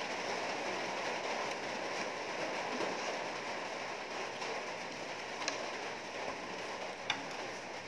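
Steady rain, an even hiss, with two small sharp clicks in the second half.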